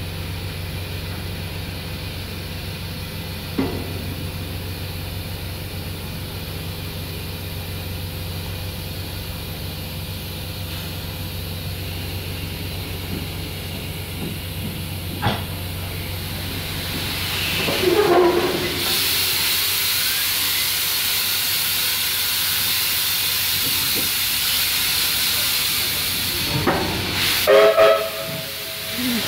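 Steam locomotive standing with a steady low hum, then from about halfway through a loud hiss of steam being released that carries on. Short whistle sounds come near the end.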